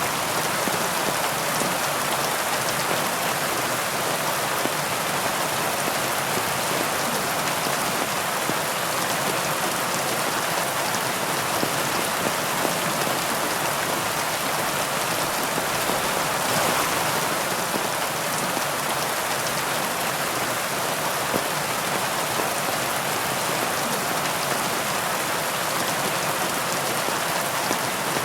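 Heavy rain falling steadily, an even hiss of dense drops, briefly a little louder about halfway through.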